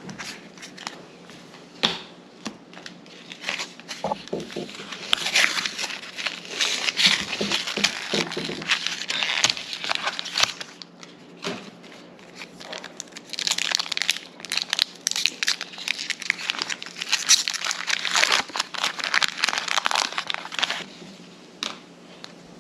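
Plastic-foil wrapper of a Pokémon Scarlet and Violet booster pack crinkling and tearing as it is opened, in two long stretches of crackling: from about five to ten seconds in, and again from about thirteen to twenty-one seconds.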